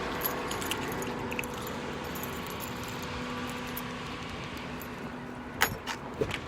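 Keys jangling, with a couple of sharper clinks near the end, over a steady background hum.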